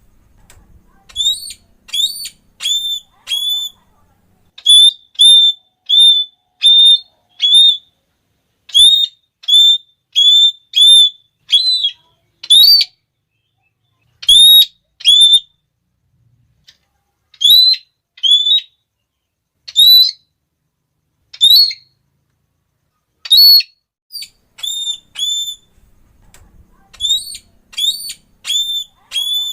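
Red-cheeked parrot (Geoffroyus geoffroyi) giving its shrill, repeated "klee" call: short high notes in quick runs of three to five, with pauses between the runs.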